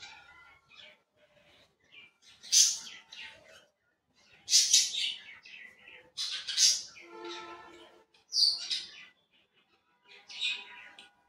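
Birds chirping in short, high calls about every two seconds, with quiet gaps between.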